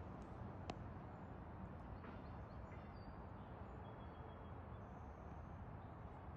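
Faint outdoor ambience: a steady low background noise, with one sharp click under a second in and a few faint, short high chirps from distant birds in the middle.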